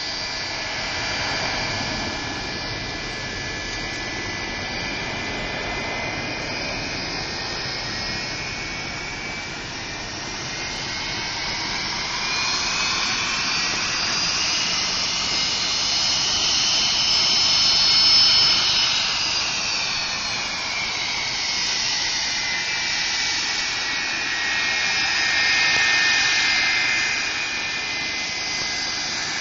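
Boeing 737-300's CFM56 turbofan engines running with a steady high whine over a broad rush. Loudness swells to its peak about two-thirds of the way through, where the whine bends up in pitch and back down, then eases and swells again near the end.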